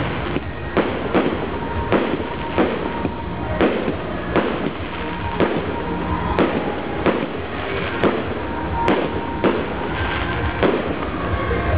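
Aerial firework shells bursting in a steady barrage, about one or two loud bangs a second, with crackle in between.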